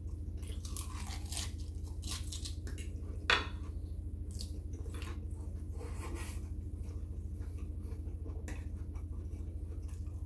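Close-up chewing and wet mouth sounds of a person eating ravioli in tomato sauce. There is one sharp click about three seconds in, over a steady low hum.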